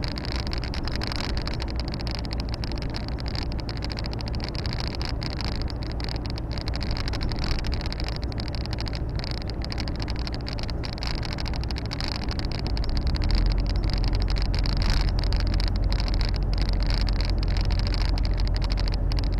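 Volvo FH 460 truck's 13-litre straight-six diesel and road noise heard in the cab while driving, a steady drone. About two-thirds of the way through, a deep hum grows louder and steadier.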